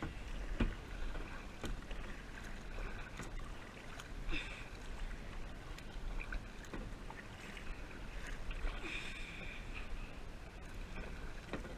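Kayak paddle strokes: the blades dip and splash in the water now and then, with a few sharp knocks, over a steady low rumble of wind or handling on the action-camera mic.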